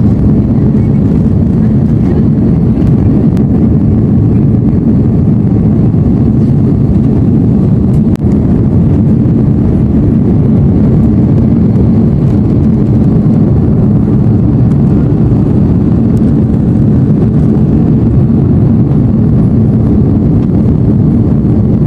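Steady roar inside the cabin of an Airbus A330-343 in flight: its Rolls-Royce engines and the airflow past the fuselage give a deep, even drone.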